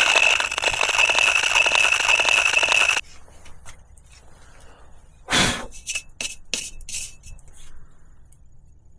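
A small hand file rasping steadily on the edges of a drilled hole in a bicycle frame. It stops abruptly about three seconds in. A single knock and a few light metallic clicks and taps follow.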